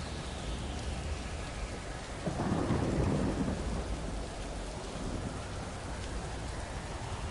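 Steady rain with a single rumble of thunder that swells about two seconds in and dies away over the next second or so.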